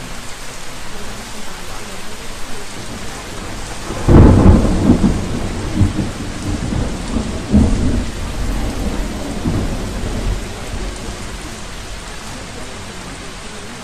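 Steady rain, with a roll of thunder starting suddenly about four seconds in, rumbling with a few swells and fading away over several seconds.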